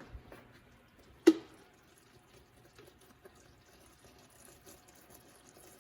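Nutella being spooned into a pan of hot cocoa-and-sugar mixture: one sharp knock about a second in, then faint scattered wet ticks.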